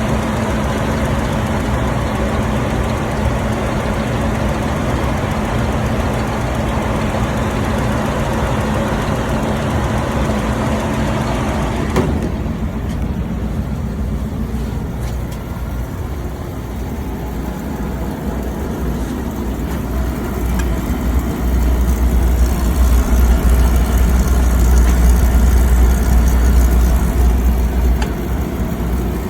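Belt-driven blower of a 1971 warm-air furnace running on a newly fitted belt: a steady mechanical hum with rushing air, a sign the no-heat fault from the broken belt is cured. A sharp click comes about twelve seconds in, after which the sound changes, and from about twenty seconds in it grows louder and deeper.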